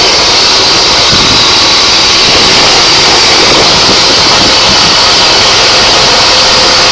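A 16 hp side-shaft auger engine on a homemade tractor running steadily, loud and close.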